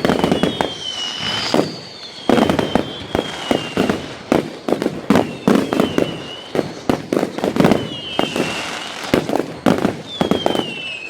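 Fireworks going off in rapid succession: a dense run of sharp bangs and crackles, with several whistles that each fall in pitch over about a second.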